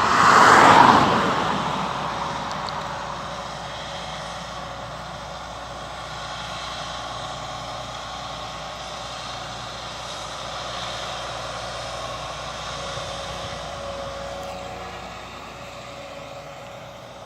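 Claas Lexion combine harvester running close by. Its noise swells loudly in the first second, then eases off to a steady drone as it moves away.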